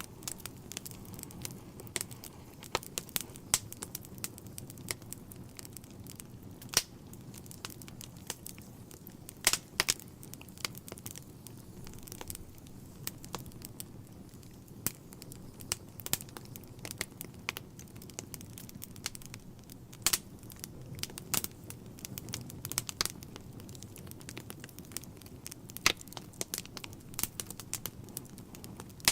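Wood fire burning in a fireplace: irregular sharp crackles and pops over a soft, low rumble of the flames.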